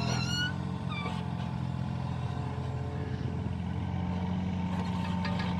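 Mini excavator's engine running steadily at a constant pitch, with a few short high squeaks in the first second.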